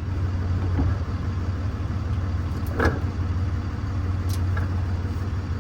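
Steady low mechanical hum, with a single short knock about three seconds in and a faint click a second or so later.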